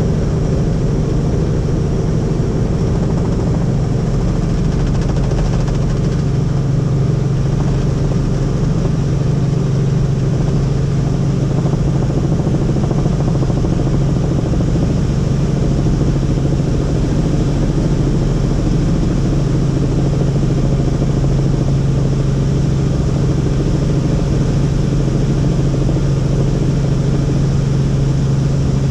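Helicopter in flight: a steady, loud drone of the rotor and engine with a low hum and an even, unchanging pitch.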